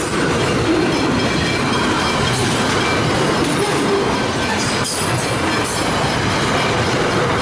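A train passing over a railway level crossing, its wagons running steadily over the rails.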